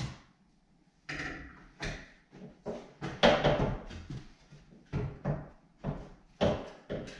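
A run of about ten hollow knocks and clunks at uneven spacing, typical of a cabinet drawer glide being fitted onto the plastic brackets inside a particleboard cabinet box and pressed home.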